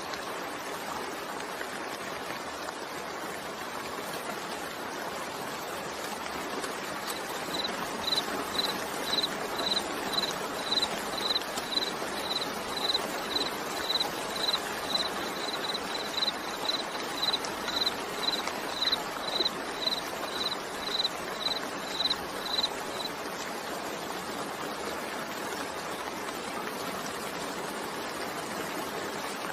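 Steady rain falling. For about fifteen seconds in the middle a short, high beep repeats at one pitch about twice a second, louder than the rain.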